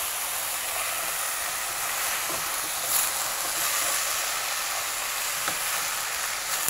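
Chickpeas and vegetables sizzling steadily in olive oil in a stainless steel pan, with a few faint clicks of the spoon as they are stirred.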